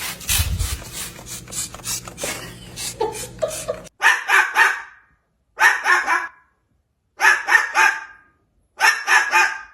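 Dog-like barking: four short runs of barks, each about a second long, repeated at even spacing with silence between them, after a few seconds of light clicking and rustling.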